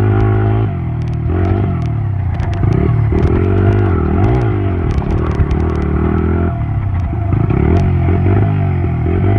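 Dirt bike engine revving up and down again and again, with scattered clattering clicks.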